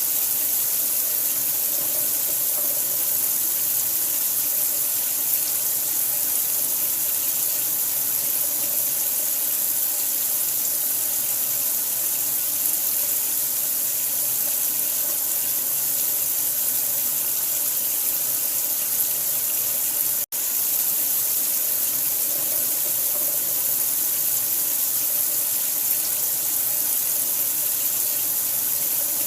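Steady running water, an even rushing hiss played as a sleep sound for a newborn. It drops out for an instant about two-thirds of the way through.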